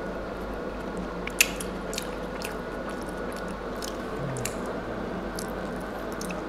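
A person chewing a mouthful of chicken tortilla wrap: scattered short wet clicks and smacks from the mouth, over a steady background hum.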